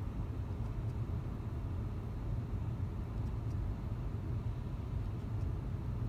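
Opel Grandland X's 1.2-litre turbocharged three-cylinder petrol engine idling steadily in Park at just under 1000 rpm, a low even hum heard from inside the cabin, with a few faint clicks.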